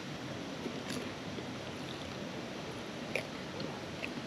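A person chewing a crunchy banana snack: a few faint crunches over a steady background hiss.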